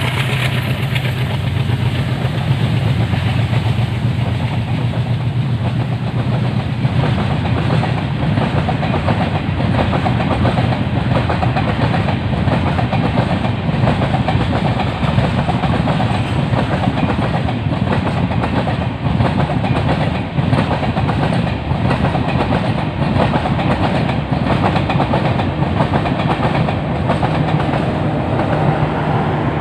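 Coaches of a long passenger train rolling past, wheels clacking steadily over the rail joints, over the low drone of the twin ALCO WDM-3A diesel locomotives hauling it. Near the end a steady low hum comes in as the rear power car passes.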